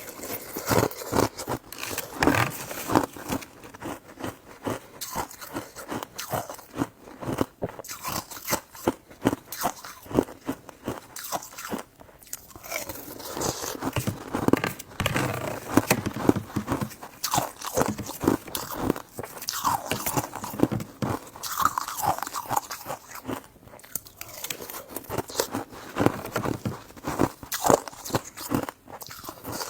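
Close-up eating sounds: a person biting and chewing, with many quick, irregular wet clicks and smacks.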